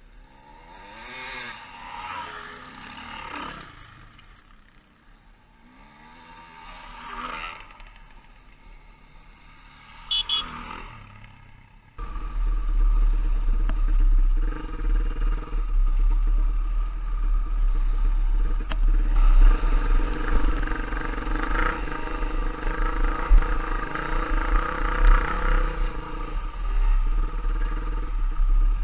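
Dirt bike engines passing close by in the first few seconds, their pitch gliding up and down. About twelve seconds in, a much louder off-road motorcycle engine comes in abruptly and keeps running with a heavy low rumble and some clatter.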